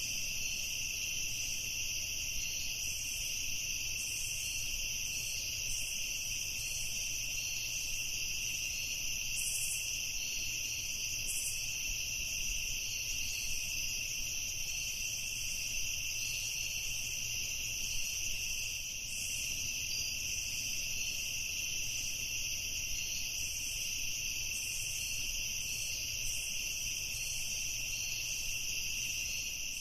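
Evening chorus of crickets, a steady, unbroken high-pitched trill over a faint low rumble.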